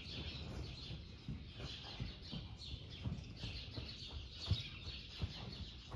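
Many small birds chirping in quick, continuous chatter, with soft low thuds underneath, one louder about four and a half seconds in.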